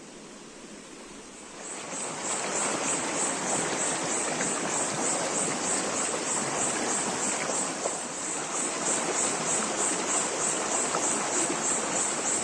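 Insects chirping in a high, even pulse about three times a second over a steady rushing noise, both starting about two seconds in.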